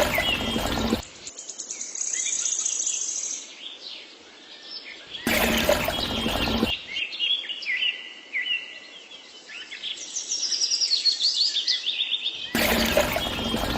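Birds chirping and trilling in quick, busy phrases, interrupted three times by a loud burst of a different, fuller noise lasting about a second and a half each.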